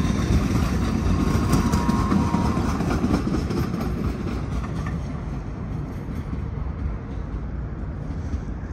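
DART light rail train running past, its low rumble and wheel noise slowly fading. A steady high whine carries on for the first couple of seconds, then stops.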